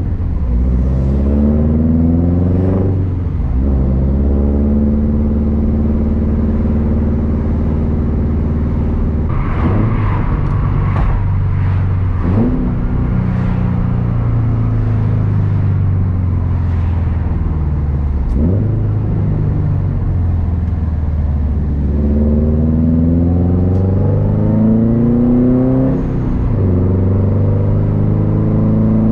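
Turbocharged Subaru STI flat-four engine with a Tomei unequal-length exhaust under load. It climbs in revs near the start and again about three-quarters of the way through, each climb ending in a sudden drop at a gear change, and it holds a steady drone between the two climbs.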